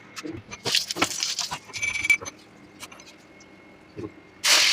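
Kitchen utensils clinking and rattling in a few short clatters, then water from a tap starts running loudly just before the end.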